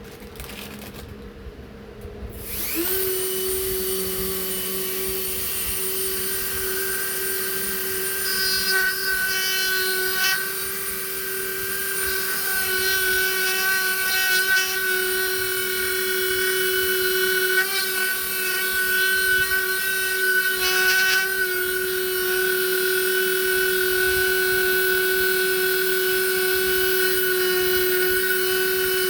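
Handheld high-speed rotary carving tool spinning up about three seconds in, then running with a steady high whine. Its sound roughens in short stretches as the bit grinds away wood.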